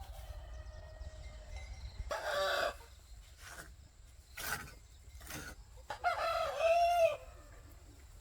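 Chickens calling: a short call about two seconds in, a brief one near the middle, and a long rooster crow, the loudest sound, near the end.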